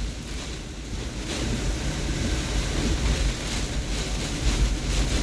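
Hurricane-force wind blowing in gusts, with a low rumble of wind buffeting the microphone that swells near the end.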